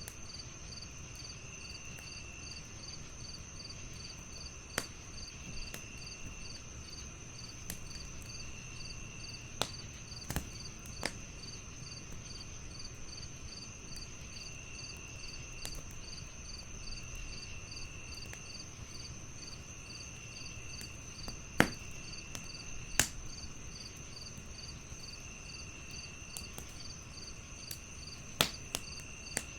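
Crickets chirping steadily with a pulsing trill, over a crackling wood fire that gives sharp, scattered pops every few seconds, the loudest pair about two-thirds of the way through.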